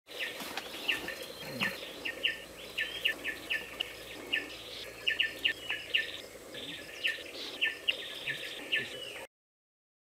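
Short, high chip notes from small forest birds, coming in irregular runs, at times several a second, over a steady background hiss. The sound cuts off suddenly near the end.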